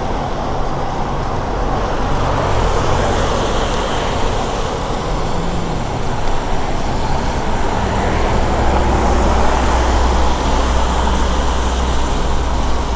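Rush-hour city road traffic: motor vehicles running past in a steady rumble, with a deeper low drone from a large engine coming in about two-thirds of the way through.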